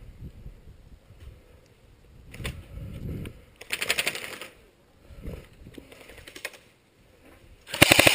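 Airsoft gun fired on full auto in short bursts of rapid clicks: one about four seconds in and a louder one near the end.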